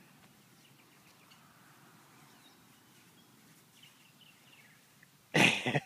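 Quiet outdoor ambience with faint, scattered bird chirps. Near the end a sudden loud burst of noise cuts in.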